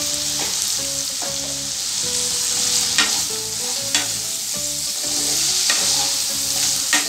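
Cubed potatoes frying in hot mustard oil in a kadai, sizzling steadily while a spatula stirs them. The spatula knocks sharply on the pan about three seconds in, again a second later, and near the end.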